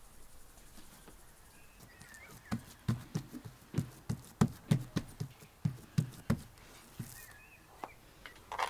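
A run of about fourteen dull knocks, three or four a second, starting a couple of seconds in and stopping about two seconds before the end.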